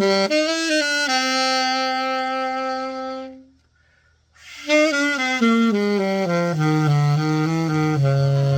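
Alto saxophone played solo. A short phrase settles on a long held note, followed by a pause of about a second. A stepwise descending run then ends on a low held note near the end.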